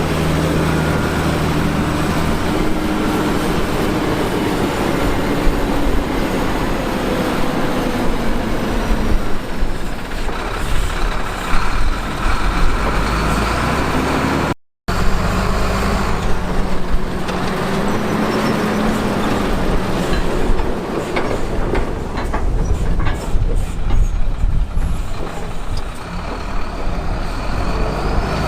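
Heavy diesel construction machinery running under load, the engine pitch rising and falling as it works, with irregular knocks and scrapes in the second half. The sound cuts out for a moment about halfway through.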